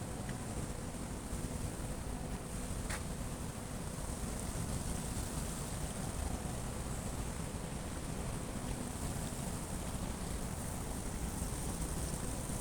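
Light drizzle: a steady hiss over a low rumble, with one faint tick about three seconds in.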